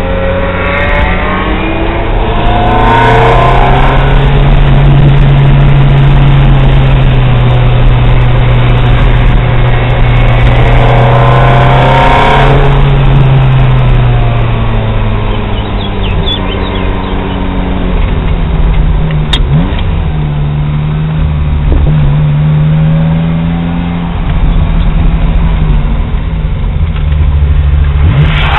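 Ferrari engine heard from inside the cabin, pulling hard with the revs sweeping up through the gears. It eases off around the middle, then holds a steady note under load.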